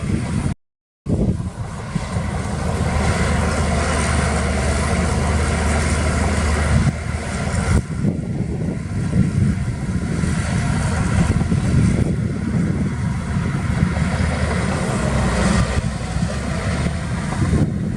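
Heavy diesel earthmoving machinery running under load, a steady low engine drone. The sound cuts to silence for a moment about half a second in, then resumes.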